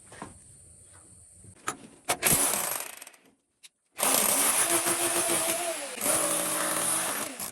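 Electric hammer drill running in bursts: a short burst about two seconds in, then after a sudden break a loud, steady run with a constant hum lasting about three and a half seconds.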